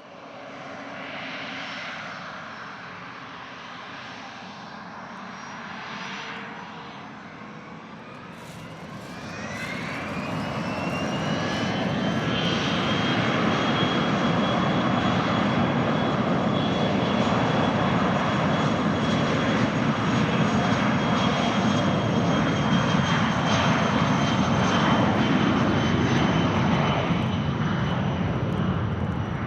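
Business jet landing: engine noise with a turbine whine that rises about ten seconds in, then holds steady and loud.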